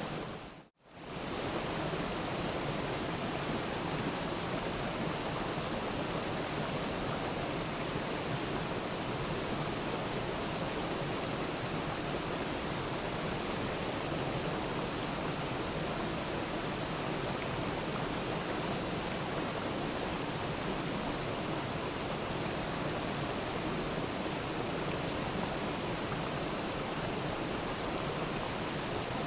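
Waterfall, water pouring and splashing in an even, steady rush. It fades out briefly to near silence about half a second in and comes straight back.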